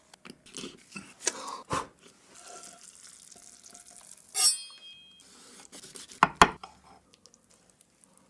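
Cooking sounds: utensils stirring and knocking against pots and dishes, with a bright metallic clink that rings briefly about four and a half seconds in, and two sharp knocks around six seconds.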